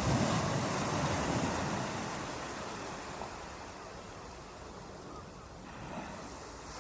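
Ocean surf: a wave surges at the start, then washes back and dies down through the middle.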